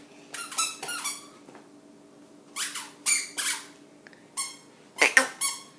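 Toddler's squeaky chappals squeaking with each step: about ten short, high-pitched squeaks in uneven clusters of two or three as the child walks.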